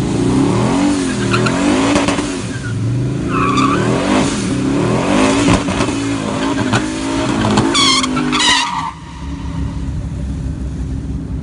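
Twin-turbocharged, custom-built 5.3-litre V8 in a GM truck revving hard, its pitch climbing and dropping over and over, with short high squeals about three and a half seconds in and again near eight seconds. Just before nine seconds it drops to a quieter, steady drone.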